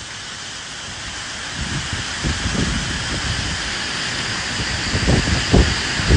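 Steady rain with wind: an even hiss throughout, with low gusts of wind swelling up several times, strongest in the second half.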